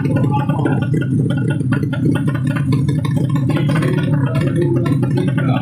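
Drag-racing underbone motorcycle's 200cc horizontal ('sleep') engine running loud and steady, with a rough, crackly note.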